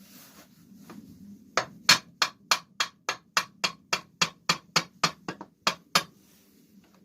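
A hammer knocking about fifteen times in a quick, even run, roughly three blows a second, starting about a second and a half in and stopping around six seconds. It is tapping a stiff-going piston with its rings down into a Briggs & Stratton engine's cylinder.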